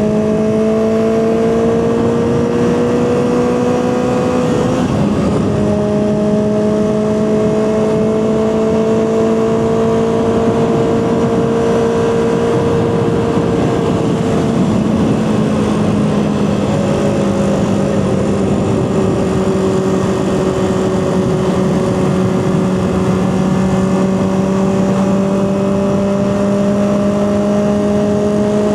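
Honda CB400/4 Super Sport's air-cooled inline four-cylinder engine pulling under way on the road. Its note climbs slowly and drops back twice at gear changes, about five seconds in and again around fifteen seconds in.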